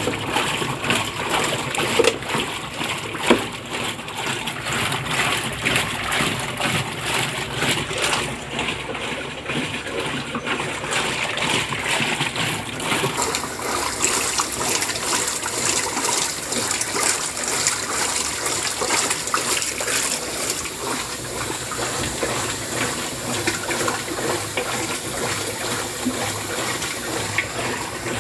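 Water rushing and splashing inside a Brastemp Ative 11 kg washing machine: a steady noise with a few sharp clicks in the first few seconds, turning hissier about halfway through.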